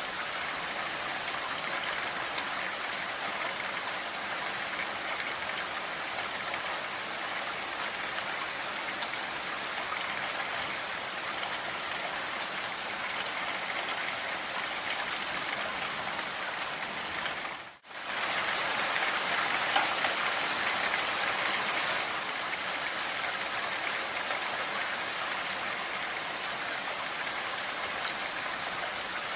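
Steady heavy rain falling, a dense even hiss of drops. A little past halfway it cuts out for a split second, like an edit or loop point, then comes back slightly louder for a few seconds.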